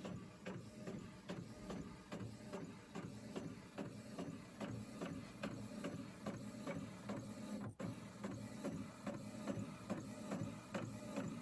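Home printer printing a card: its mechanism runs with a steady, even rhythm of ticks, a few each second.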